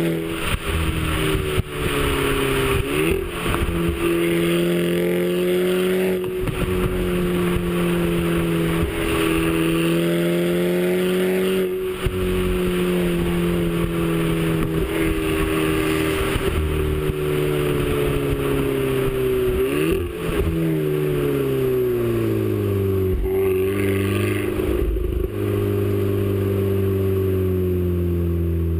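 Audi A3's turbocharged 2.0 TSI four-cylinder, upgraded with an APR K04 turbo, running with a mostly steady engine note. The pitch swings briefly twice, then falls gradually over the last several seconds.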